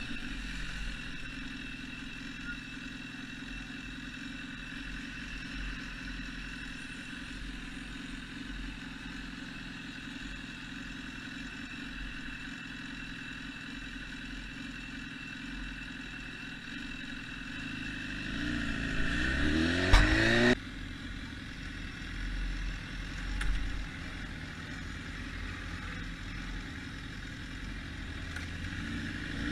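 Car engine running steadily, then revving up with a rising pitch about two-thirds of the way in, ending in a sharp click and a sudden drop in sound; it starts revving up again near the end.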